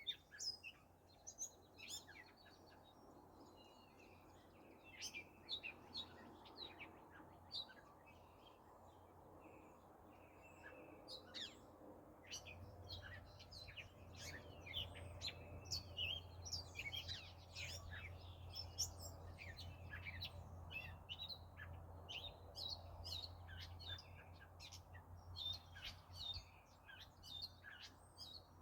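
Several wild birds chirping and singing, in many short high calls that come more thickly in the second half. A faint steady low hum sets in about halfway through.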